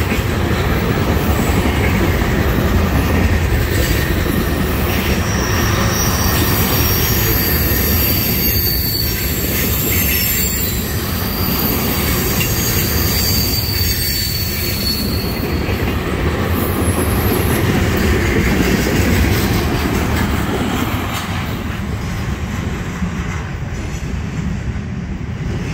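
Freight train of trash-container cars rolling past, steel wheels rumbling and clacking on the rails. A high wheel squeal comes and goes from about five to seventeen seconds in. The noise fades near the end as the last cars pull away.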